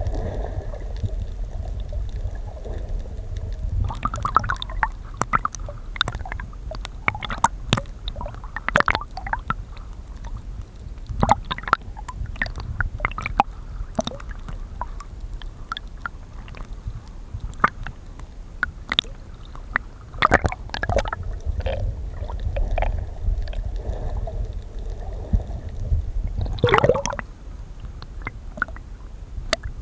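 Underwater sound: a steady low rumble with many scattered sharp crackling clicks and a few gurgling bursts of bubbles, the loudest about 27 seconds in.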